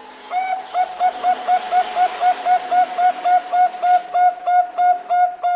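Zebra dove (perkutut bangkok) calling: a fast run of about twenty short, even cooing notes, roughly four a second, all on the same pitch.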